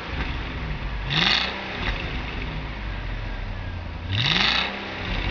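Car engine idling, blipped twice by the throttle, about a second in and again about four seconds in: each rev climbs quickly in pitch and falls straight back to idle, loud and short.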